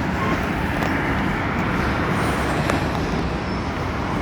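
Freight train rolling past, a steady rumble with a few faint clicks.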